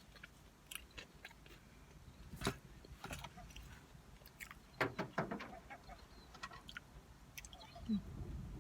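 A person chewing cheesy curly fries with their mouth close to the microphone: scattered wet clicks and smacks, with a louder cluster about halfway through.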